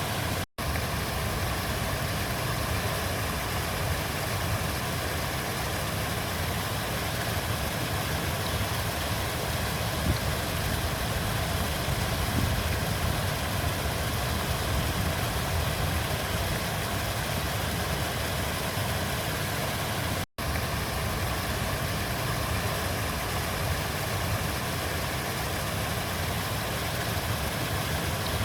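River water flowing steadily in a continuous rushing wash, broken twice by a split-second dropout, once near the start and once about twenty seconds in.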